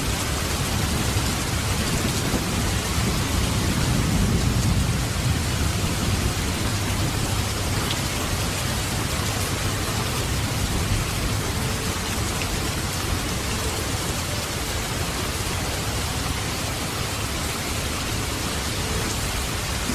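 Steady rain falling, a dense even hiss, with a low rumble swelling and fading about four seconds in.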